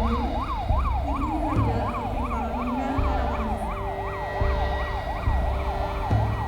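An electronic siren in a fast yelp, its pitch sweeping rapidly up and down about two and a half times a second, over irregular low thumps.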